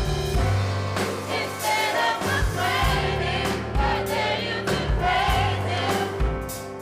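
Gospel choir singing with a live band: sustained bass notes, drums and keyboard under the voices.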